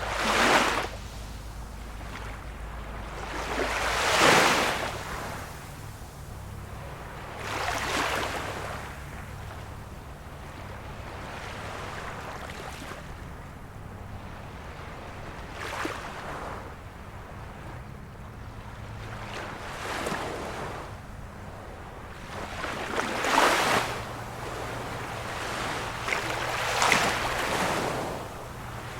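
Small waves of a calm sea washing in, in irregular swells of noise every few seconds, the biggest about four seconds in and again near the end.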